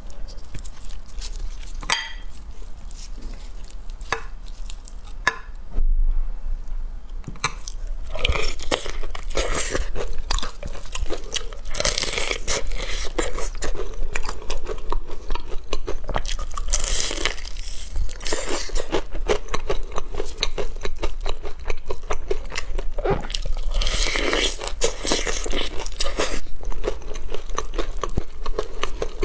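Close-up crunching and chewing of sauce-coated crispy fried chicken, a fast run of crackling clicks as each bite is chewed. The clicks are sparse for the first several seconds and grow dense from about eight seconds in.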